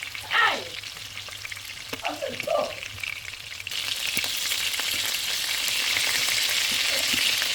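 Chicken wings shallow-frying in hot oil, sizzling, with a couple of short scraping sounds near the start; the sizzle grows clearly louder about halfway through.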